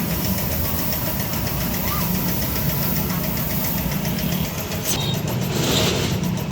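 A motor or engine running steadily, with a brief hiss about five and a half seconds in.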